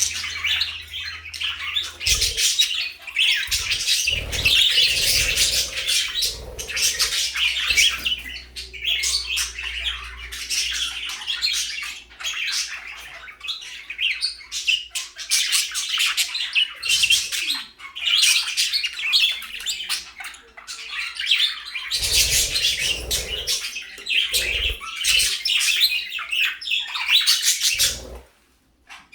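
Pet budgerigars chattering and warbling: a dense, continuous stream of rapid high chirps, broken only by a short pause near the end.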